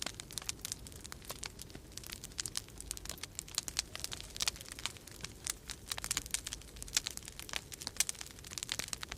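Wood fire crackling in a fireplace, a dense run of irregular sharp pops and snaps, over a steady low rumble of storm wind.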